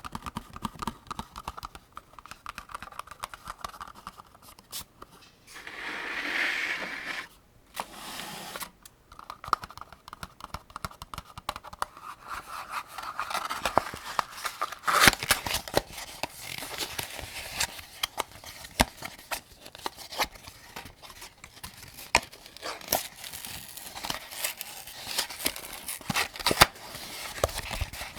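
Cartridges being pressed one by one into a 75-round AK-47 drum magazine: a steady string of small metallic clicks and scrapes as each round goes in. There is a longer rasping scrape about six seconds in.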